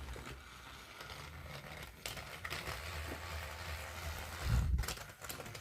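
Battery-powered motorized toy train engine running along plastic track, a steady low motor hum, with a louder low thump about four and a half seconds in.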